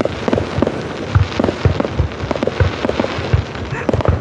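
Fireworks display: a rapid, irregular run of loud booms and bangs, several a second.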